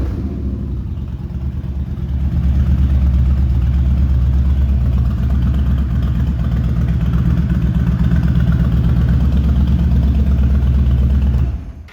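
Yamaha XVS1300CU Stryker's 1304 cc V-twin engine idling steadily, a little quieter for the first two seconds. The sound stops abruptly near the end.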